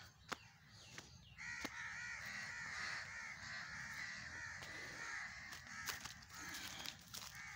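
Harsh bird calls, rapidly repeated in a dense run for about four and a half seconds, starting about a second and a half in. A few sharp clicks come before them.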